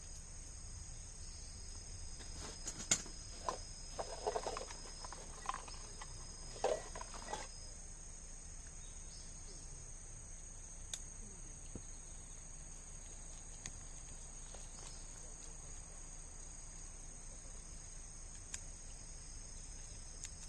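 Steady high-pitched chorus of insects chirring, with a short run of knocks and clatters a few seconds in and a few faint clicks later.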